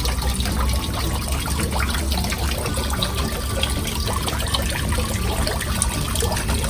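Water trickling and splashing steadily down a homemade water-curtain fountain into its basin, fed by a small pump.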